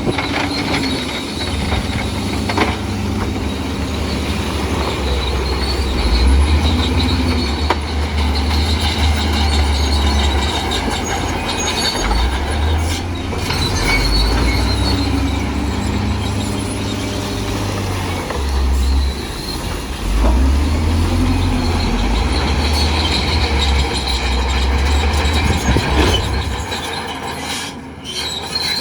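Crawler bulldozer working: its diesel engine rumbles and surges under load in long waves, over a steady high squeal and clatter of the steel tracks.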